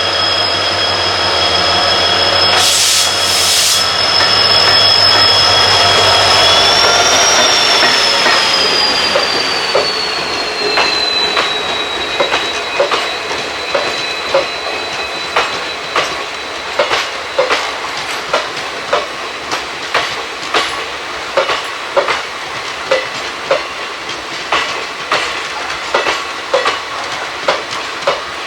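Train wheels squealing against the rails in a high, steady whistle that wavers and slides down in pitch, then fades. After that comes a regular clickety-clack of ICF coach wheels running over rail joints, a little more than one click a second. A short burst of noise about three seconds in.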